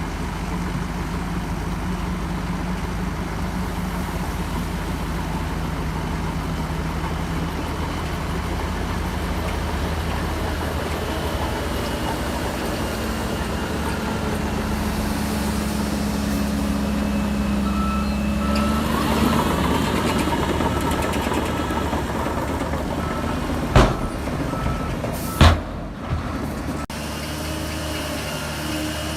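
Diesel engine of heavy earthmoving machinery running steadily, with a reversing alarm beeping in an even series through the second half. Two sharp knocks about a second and a half apart near the end.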